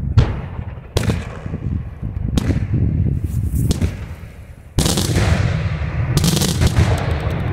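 Daytime aerial fireworks shells bursting with loud bangs, about five separate reports in the first five seconds, each trailing a rumble. Near the end a dense, rapid crackle of many small reports sets in.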